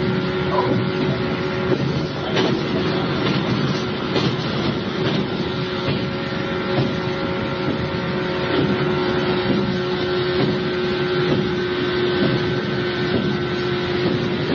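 Cabin sound of an electric local train under way, recorded on cassette tape: a steady rumble of wheels on rail with a constant hum and occasional clacks.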